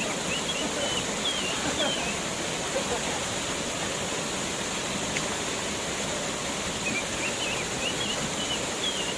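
Waterfall: steady rushing water, with a few short, high chirps near the start and again near the end.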